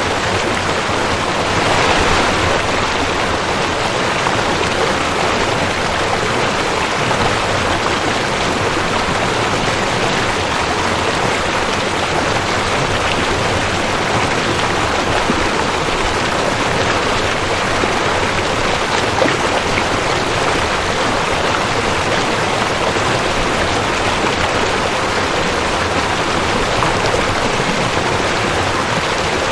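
Rushing creek water flowing steadily, a constant dense rush and splash.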